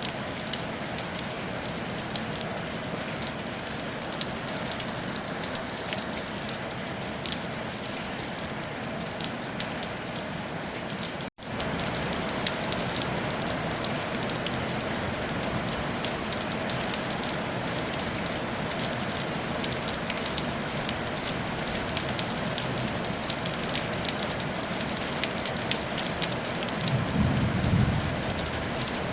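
Steady rain falling on a tile roof, a dense patter of drops. The sound cuts out for a split second about eleven seconds in. A brief low rumble comes near the end.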